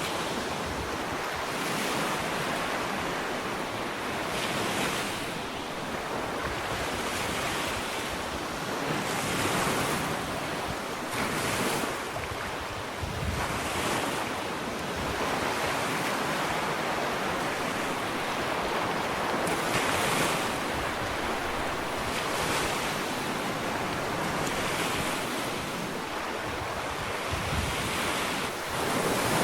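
Gentle ocean waves breaking and washing onto a sandy beach, a continuous surf hiss that swells with each wave every couple of seconds.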